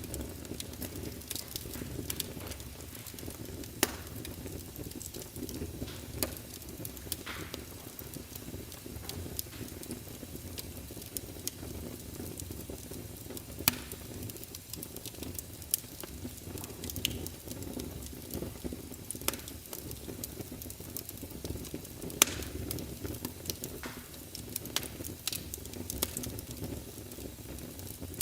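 Crackling fire: a steady low rumble of burning with sharp pops and snaps at irregular intervals, a few of them louder than the rest.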